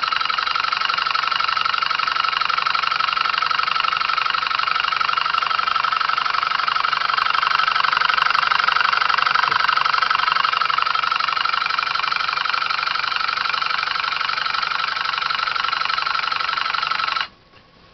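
Home-built electric pulse motor running steadily at speed on 32 volts and about 1 amp. Its coils are two microwave-oven transformer secondaries wired in parallel, its magnets come from magnetrons, and it is switched by reed switches and relays. It makes a loud, steady mechanical buzz that cuts off suddenly near the end.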